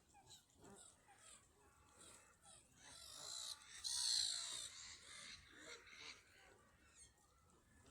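Birds calling at a lakeside, faint throughout, with a louder burst of high calls about three to four and a half seconds in.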